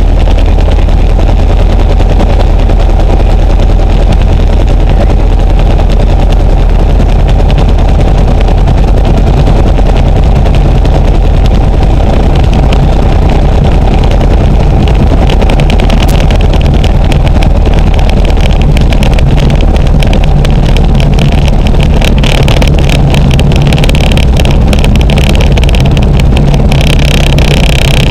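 Luscombe light aircraft's piston engine running steadily, loud and close. From about halfway a low hum grows stronger, and a higher hiss joins in over the last few seconds.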